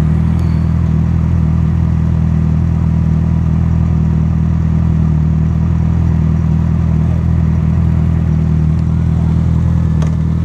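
Honda CB1000R's inline-four engine running at a steady speed while riding, its pitch holding level throughout.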